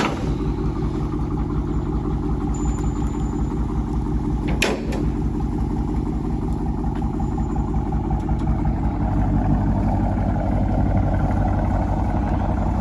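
2022 Dodge Charger R/T's HEMI V8 running with its mid mufflers deleted: a steady, deep exhaust note that swells slightly about two-thirds of the way through. A single sharp click sounds about five seconds in.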